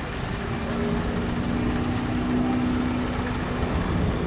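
Pitts S-2B aerobatic biplane in flight: its engine and propeller drone steadily, and the note drops lower near the end.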